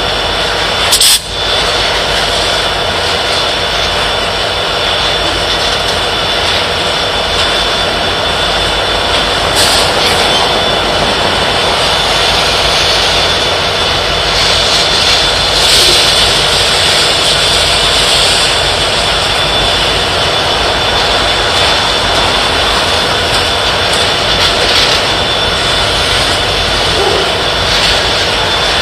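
Freight train of coal hopper cars rolling past on the adjacent track: a loud, steady rumble and clatter of wheels on rail, with a thin high-pitched tone running through it. There is one sharp knock about a second in.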